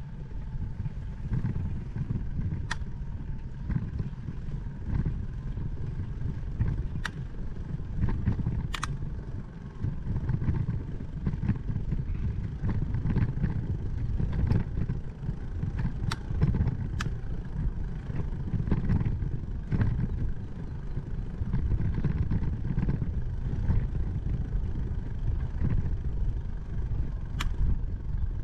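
Bicycle riding at speed: low rumbling wind on the camera microphone and tyre noise, with sharp clicks and rattles from the bike every few seconds.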